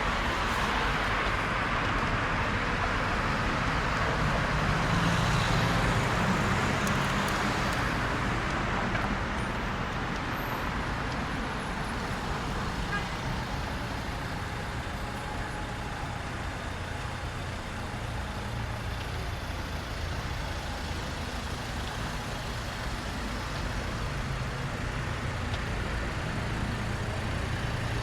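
Street traffic: a vehicle passes, growing louder and peaking a few seconds in, then fading into a steady hum of road traffic with engine rumble.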